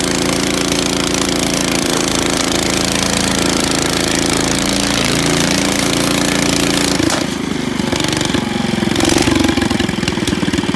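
Ford engine running steadily after its tune-up and rebuild. About seven seconds in, the sound changes abruptly to a slower, choppier idle with distinct firing pulses.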